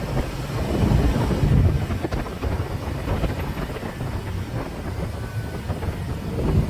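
Motorcycle engine running on the road, with wind buffeting the microphone.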